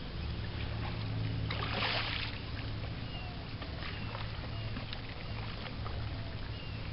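Water sounds from paddling a Sea Eagle 330 inflatable kayak, with a louder paddle splash about two seconds in, over a steady low hum.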